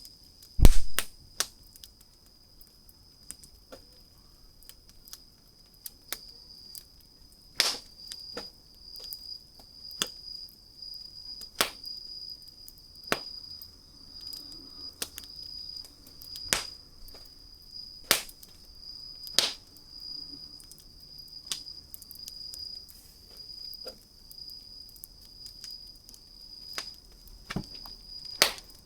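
Wood fire crackling, with sharp pops every second or two and a louder pop with a low thud about a second in. A steady, high-pitched pulsing trill runs underneath.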